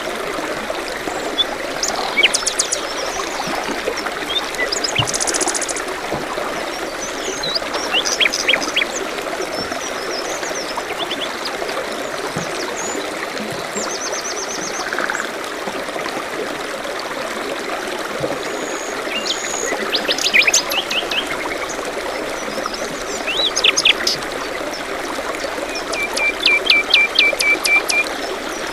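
Forest stream running steadily, with birds calling over it in short chirps and trills. Near the end, a run of about eight quick, evenly spaced notes.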